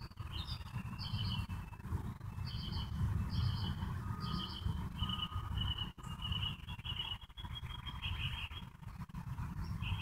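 Birds singing: strings of short, high, repeated chirps, often in pairs, over a steady low rumble.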